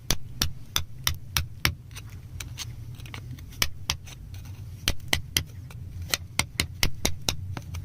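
Irregular sharp clicks and taps of a hard tool striking and chipping at rock, coming in small clusters about one to three a second, over a low steady hum.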